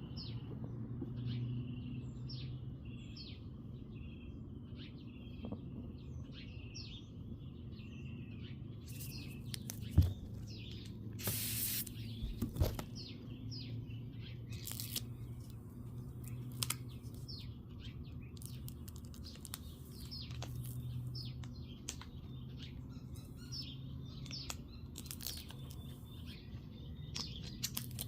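Small birds chirping over and over, over a steady low hum. A sharp click about ten seconds in and a brief hiss a second later.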